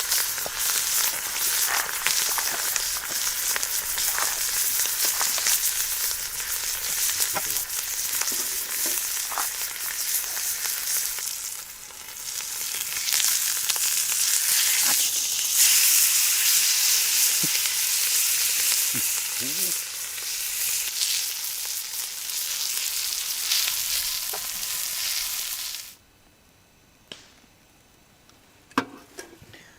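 Steak sizzling in a hot Turk iron frying pan. The sizzle dips briefly partway through, comes back louder, then cuts off suddenly near the end, leaving a few faint clicks.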